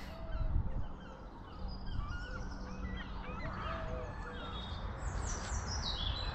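Several wild birds calling and singing: scattered short chirps and whistles, with a quick descending run of high notes near the end, over a low rumble.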